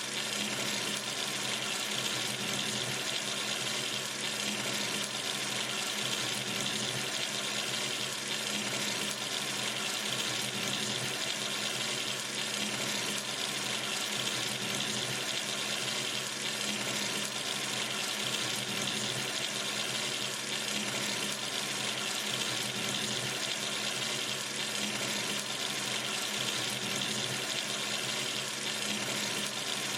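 Water running steadily from a sink tap into the basin, an even unbroken splashing hiss.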